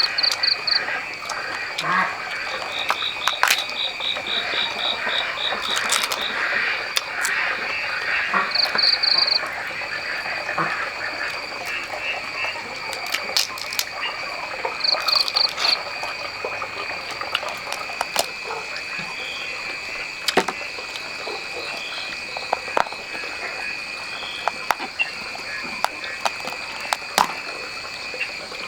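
A chorus of frogs and insects: a steady high trill runs throughout, while short pulsed calls repeat several times in the first half, with scattered sharp clicks.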